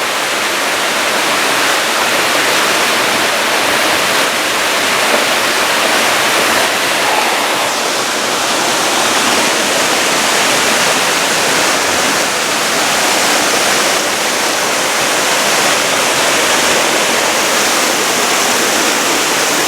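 Waterfall pouring steadily, a loud, even rush of falling water with no breaks.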